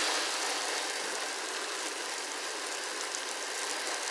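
Pressure washer running and spraying water, a steady hiss.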